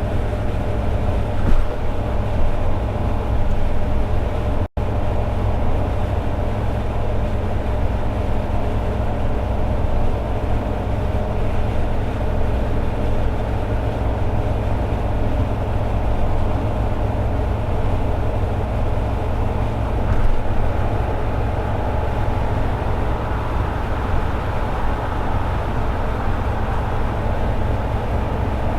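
Toyota AE86 Sprinter Trueno's 4A-GE four-cylinder engine running at a steady highway cruise, with a constant engine hum and low road rumble. The sound cuts out for an instant about five seconds in.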